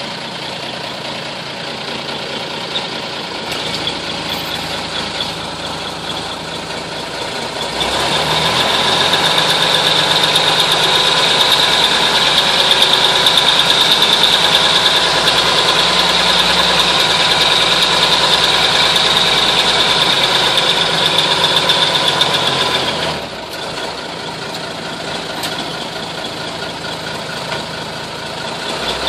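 M931 5-ton military truck's Cummins six-cylinder diesel idling, still below operating temperature. About eight seconds in, the engine speed rises and holds steady for about fifteen seconds, then drops back to idle.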